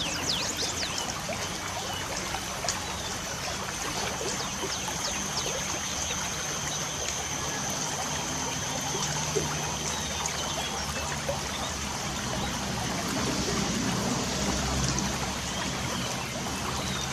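Light rain falling steadily, with birds chirping in many short, quick notes throughout. A thin steady high note runs beneath the chirps and fades out about ten seconds in.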